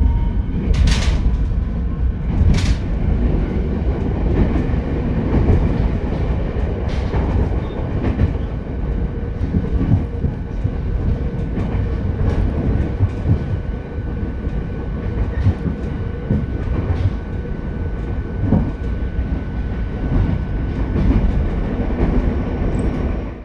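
Ichibata Electric Railway 7000 series electric railcar running at speed, heard from inside the car: a steady rumble of wheels on rail with a faint motor hum, and a few sharp clacks over rail joints, two of them in the first few seconds.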